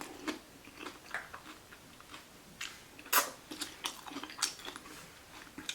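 Close-up chewing of a vegan salad taco: scattered short mouth clicks and crunches, the sharpest about three seconds in.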